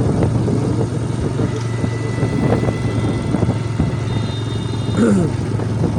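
Motorcycle engine running steadily under way, with wind noise on the microphone. Near the end there is a short sound that falls in pitch.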